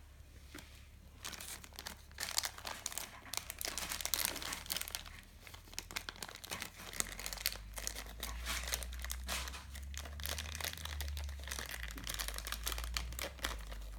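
Crinkly toy packaging being handled and torn open by hand, an irregular stream of sharp crinkles and crackles.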